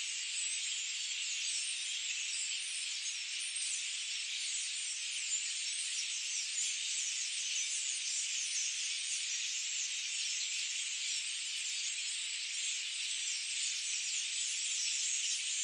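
Dense chorus of many small birds chirping and trilling at once, a steady high wash of overlapping short notes.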